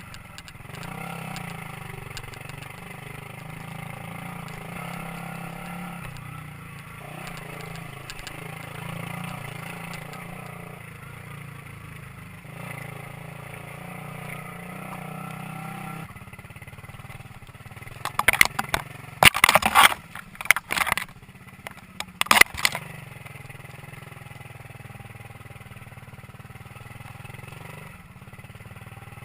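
Minsk 125cc two-stroke single-cylinder motorcycle engine running steadily while riding. About two-thirds of the way through, several loud, rushing noise bursts rise over it.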